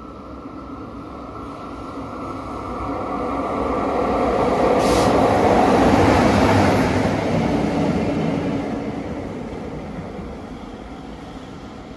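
A JR Freight EF65 electric locomotive towing a newly built EF210 locomotive passes by. The train noise builds to a peak about halfway through and then fades away.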